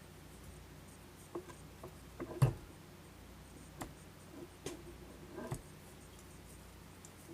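Scattered light clicks and knocks of tools and parts being handled, the sharpest a single knock about two and a half seconds in.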